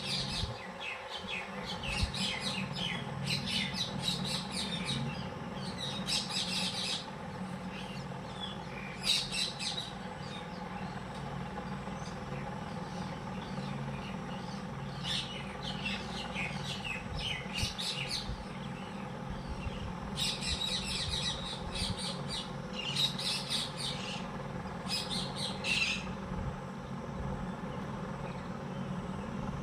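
Small birds chirping and calling in bursts of rapid short notes, with quieter gaps between, over a low steady hum.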